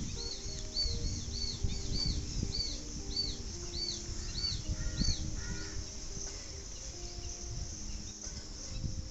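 A songbird repeating a short, high, arched chirp about twice a second, which stops about five seconds in. Under it run a steady high hiss, low held tones that step from pitch to pitch, and a low rumble.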